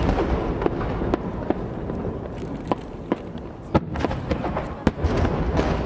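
Fireworks display: aerial shells bursting with deep rolling booms, the loudest near the start and again about five seconds in, amid a scatter of sharp cracks and pops.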